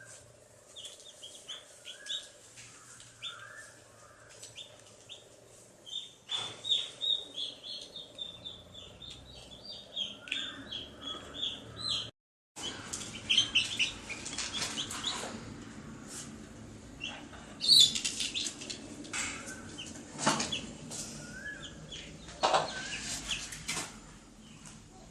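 Baby chicks peeping: many short, high chirps in quick runs, with occasional brief rustling noises among them. The sound cuts out completely for a moment about halfway through.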